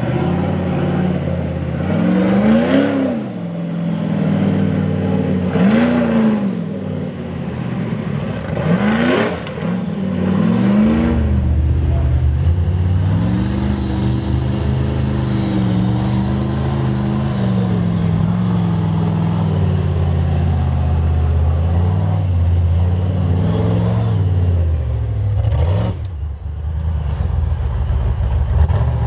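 Toyota FJ45's engine revved in three short blips a few seconds apart, then held at high revs for over ten seconds with the pitch wavering up and down, before dropping off near the end.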